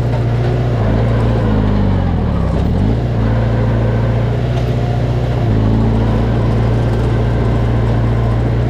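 Heavy-equipment diesel engine running steadily under load; about two seconds in its note sinks and then climbs quickly back up.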